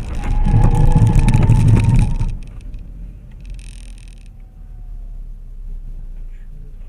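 Car noise: a loud stretch of about two seconds with a held tone over a low rumble, then a quieter steady engine and traffic rumble, with a short hiss about three and a half seconds in.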